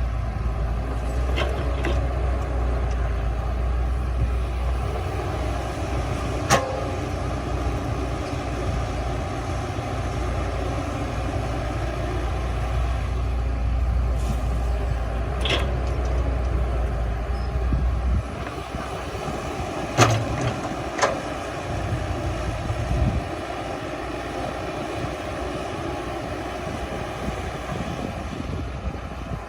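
Heavy diesel earthmoving machinery running with a steady deep rumble that drops off about two-thirds of the way through. A few sharp knocks ring out over it.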